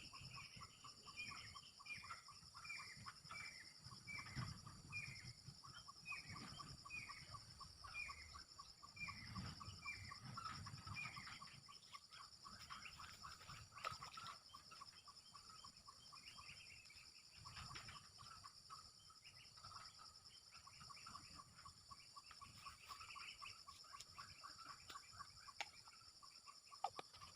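Faint small-bird calls: a run of short falling chirps, about two a second, that fades out about halfway through, over a rapid fine ticking and a steady high insect buzz.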